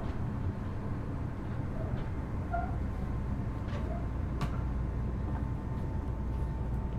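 Kitakyushu Monorail Series 1000 car standing at the platform with its doors open: a steady low hum from its onboard equipment with a faint steady high tone. A sharp click comes about four and a half seconds in and another near the end.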